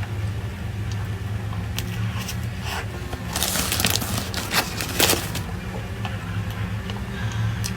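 A person chewing and biting food close to the microphone: scattered clicks and a louder crunching stretch about three to four seconds in, over a steady low hum.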